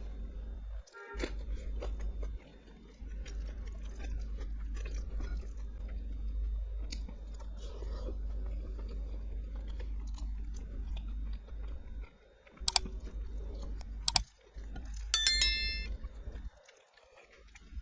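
Close-miked chewing and wet mouth sounds of someone eating, with many small soft clicks. Near the end come two sharp clicks, then a short ringing clink, the loudest sound.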